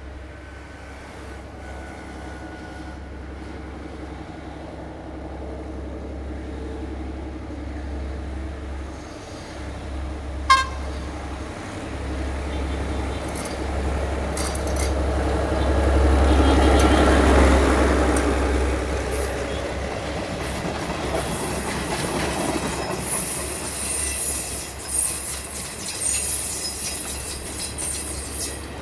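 Diesel train passing on the line: its engine hum grows louder to a peak about halfway through, then eases as the carriages go by. From there on there are high wheel squeals and rail clicks, and there is one sharp crack about ten seconds in.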